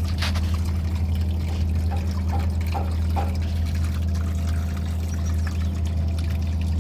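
A mix of water and engine oil pouring steadily out of the opened engine sump: water has got into the oil. A steady low hum runs underneath.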